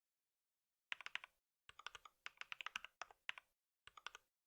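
Typing on a computer keyboard: three short runs of quick keystrokes with brief pauses between them.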